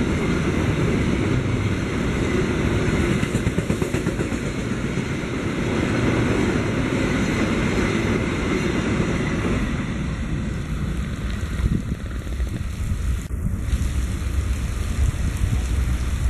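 Freight train of container-laden flatcars rolling past on the rails, a steady rumble of wheels and wagons with the hiss of rain. The rumble eases about ten seconds in as the train draws away around the curve.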